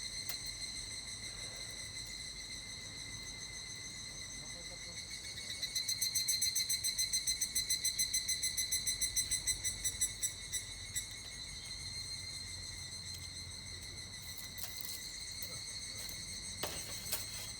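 Higurashi (evening cicada) calling over a steady high insect ringing. About six seconds in, one cicada breaks into a fast pulsed 'kana-kana' call of about five pulses a second, which lasts some four seconds and then slows and fades out.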